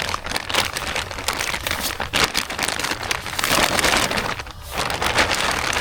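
Plastic bag of chicken wings crinkling and rustling as it is handled, in a run of irregular crackles.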